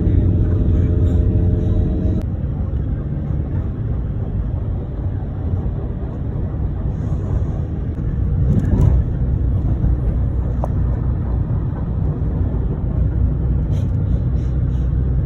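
Steady low rumble of a moving motor vehicle, engine and road noise, with a held tone that cuts off about two seconds in.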